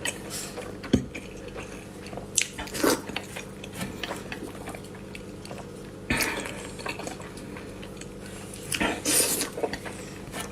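Eating sounds: chewing and mouth noises with scattered clicks and clinks of utensils against dishes, with a longer noisy burst about six seconds in and another near nine seconds.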